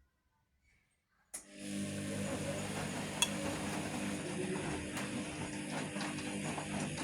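Vestel CM8710 washing machine starting up in its final rinse: a click about a second in, then a steady motor hum over a rushing noise, with another sharp click a couple of seconds later.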